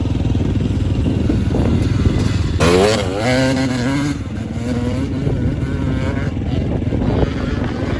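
Dirt bike engine running, revved up sharply about two and a half seconds in, its pitch wavering as it climbs, then holding at a steadier higher pitch.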